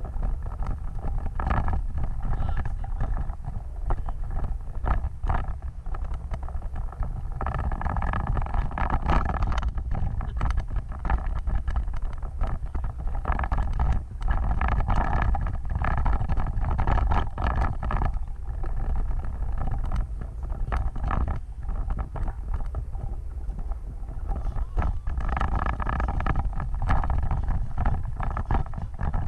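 Off-road vehicle driving over rough ground: a steady low engine rumble with frequent knocks and rattles, the engine note rising in a few stretches.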